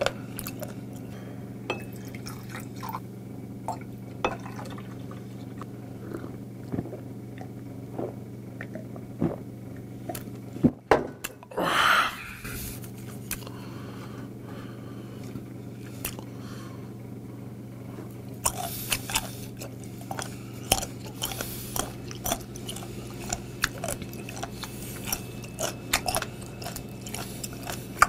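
Close-up chewing of crisp, chewy raw seafood (sea cucumber, spoon worm, skate-nose cartilage), many sharp crunching clicks, growing denser in the last third. A brief louder wet noise comes about halfway through. Under it all runs a steady low hum from a refrigerator motor.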